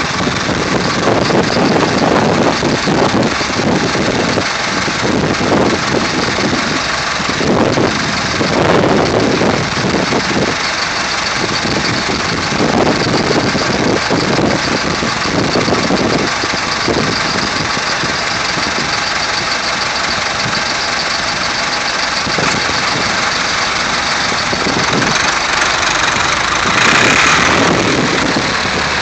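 Vintage tractor engines running and idling, a steady loud engine noise that swells and fades.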